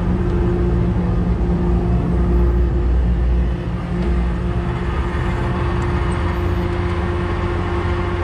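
A truck engine idling steadily, with a heavy low rumble that eases off about three and a half seconds in.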